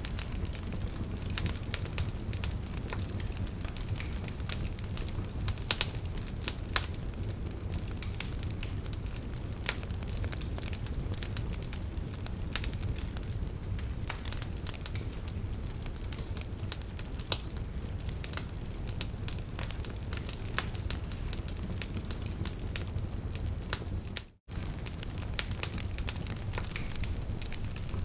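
Wood fire burning in a fireplace: a steady low rumble of flames with frequent sharp crackles and pops from the burning logs. The sound drops out for an instant about 24 seconds in.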